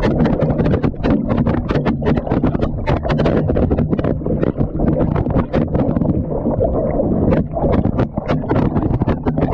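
Water sloshing and churning inside a washing machine drum during a wash, heard from inside the drum, with constant irregular knocks and clatter as the camera tumbles against the drum and the load.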